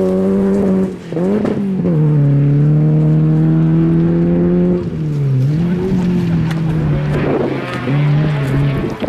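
Peugeot 309 GTI rally car's four-cylinder engine running hard at high revs. The note holds steady for a few seconds at a time, and its pitch drops and climbs again briefly about a second in, around five seconds in, and near the end.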